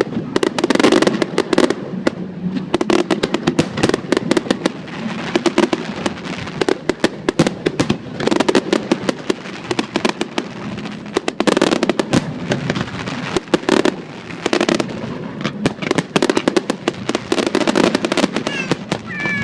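Fireworks show in full barrage: sharp bangs and crackles following one another rapidly and densely, with no pause.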